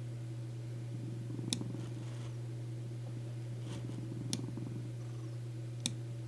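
Steady low background hum, with four short, sharp clicks spread across it.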